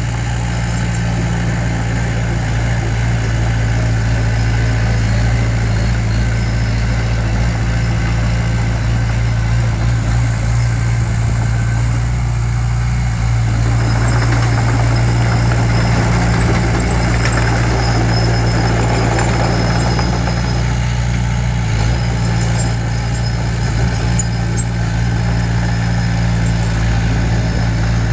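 Diesel engine of heavy earthmoving equipment running steadily, a constant low hum, with a rougher, noisier stretch in the middle.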